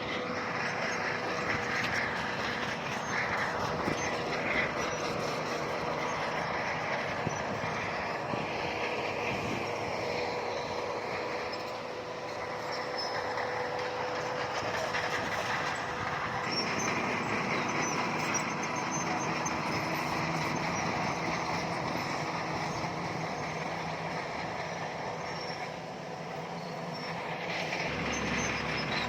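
Heavy diesel earthmoving machinery running steadily, with a held whine over the engine noise and two brief dips in loudness.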